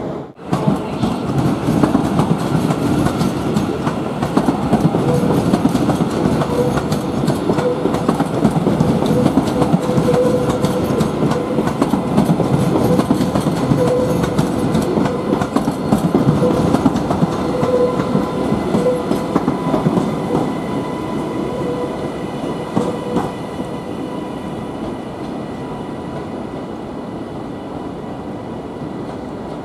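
TransPennine Express class 397 electric multiple unit running past with its wheels clattering on the rails. The sound builds to a peak and then fades as the train moves away over the last several seconds.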